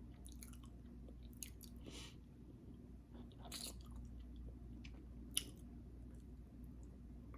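A person chewing food close to the microphone, with scattered soft mouth smacks and clicks, one sharper click about five and a half seconds in, over a faint low hum.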